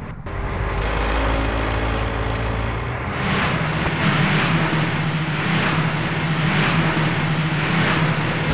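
Car engine running steadily. From about three seconds in, its pitch shifts and a rhythmic rushing noise pulses roughly every 0.7 seconds.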